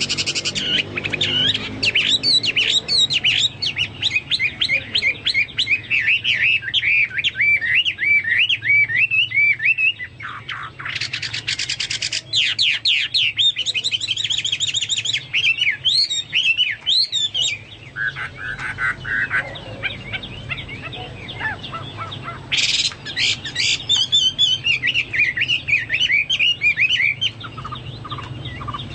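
Chinese hwamei (hoa mi) singing a long, loud, fast song of rapid varied whistled phrases, in a style likened to a cucak Papua or cucak mas. There is a short break about ten seconds in and a quieter stretch past the middle. A faint steady low hum lies underneath.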